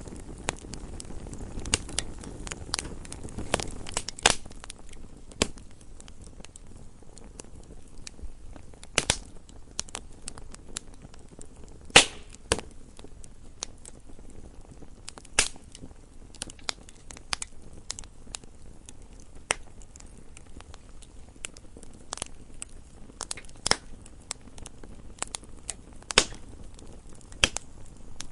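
Wood fire burning in a fireplace, crackling and popping at irregular intervals over a low rustle of flames, with a sharp louder pop about twelve seconds in.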